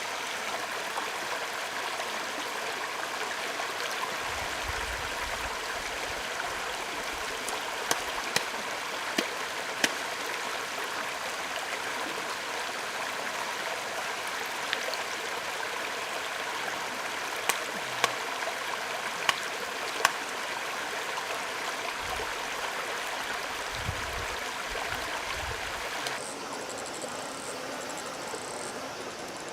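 Running water of a forest stream, a steady rushing, with a handful of sharp clicks between about 8 and 20 seconds in and a few low bumps. It drops a little in level near the end, with faint high chirping.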